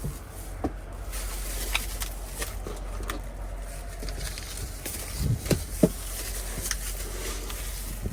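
Scattered light clicks and taps from seasoning containers being handled, with a couple of dull knocks about five to six seconds in, over a steady low hum.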